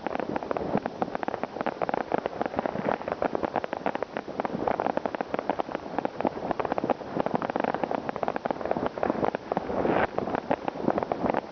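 New Year's Eve fireworks and firecrackers going off all around: a dense, continuous crackle of many overlapping bangs and pops.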